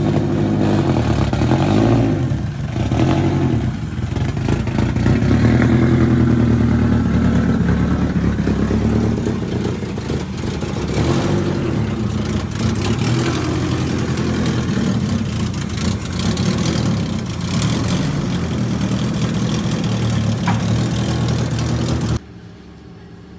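Turbocharged drift car engine running loud, idling with small rises and falls in revs. The sound cuts off abruptly near the end.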